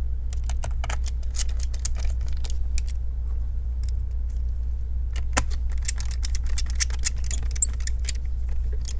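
Small irregular metallic clicks and taps of a screwdriver and screws being driven back into a laptop's chassis during reassembly, over a steady low hum.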